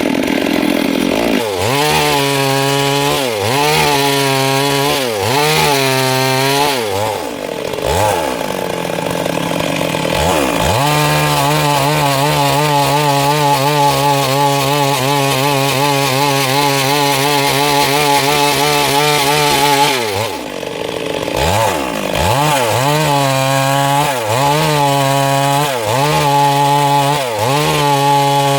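Stihl MS382 two-stroke chainsaw cutting wood at high revs, its engine pitch dipping and recovering about once a second as the chain bites, with a long steady stretch in the middle and a few brief drops in revs.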